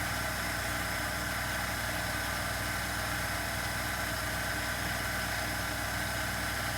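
A steady background hum with a faint thin whine above it, unchanging throughout, with no handling or tool sounds standing out.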